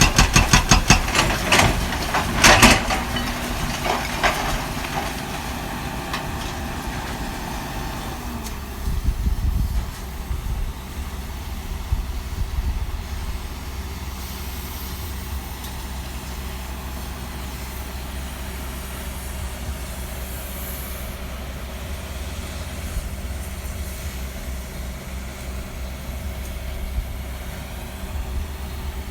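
Caterpillar 320D excavator working at demolition: a fast, even run of knocks and a few heavy crashes in the first few seconds, then the diesel engine running steadily with a low hum and brief hiss now and then.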